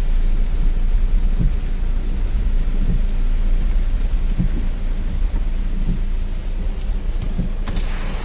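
Heavy rain falling, with a steady low rumble underneath. Near the end a brighter hiss of water comes in.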